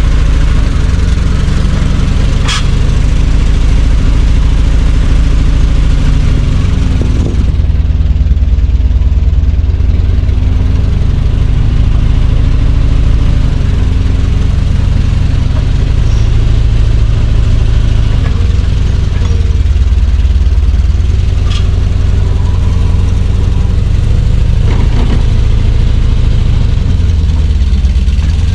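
Chevrolet C60 truck engine running, its speed rising and falling a few times, with a few sharp knocks.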